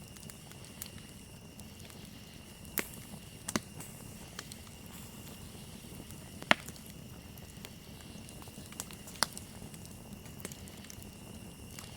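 Wood campfire crackling, with sparse sharp pops, the loudest about halfway through, over a steady high cricket trill.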